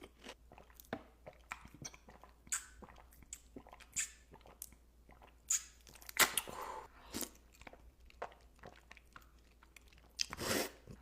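Close-miked eating: crunchy bites and chewing, a run of sharp crackles with louder crunches about six seconds in and again near the end.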